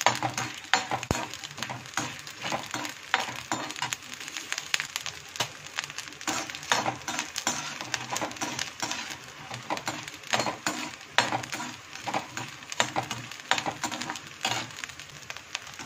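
Large sago pearls (sabudana) sizzling and crackling as they fry in ghee in a metal kadhai, with a slotted metal spoon stirring and scraping against the pan. The crackling goes on while the pearls are not yet cooked through inside.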